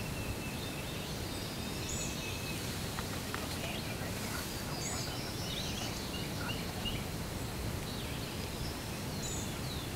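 Scattered faint songbird chirps and short high calls over a steady low background rush of open-air noise.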